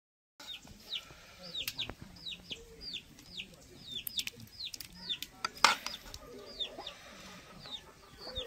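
A bird chirping over and over, a short falling note about three times a second, with a few sharp clinks of a ladle against a metal pan, the loudest just past halfway.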